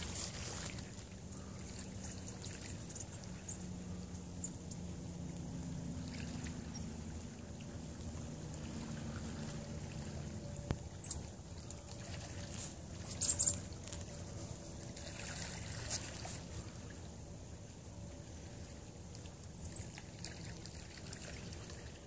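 A small songbird in a thicket gives a few brief, very high-pitched call notes: one about halfway through, a quick cluster a couple of seconds later, and a pair near the end. Under the calls is a steady low background rumble.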